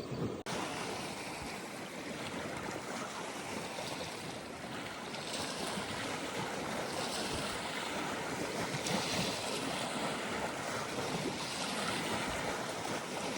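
Steady rushing noise of strong wind, with wind-driven water splashing and lapping.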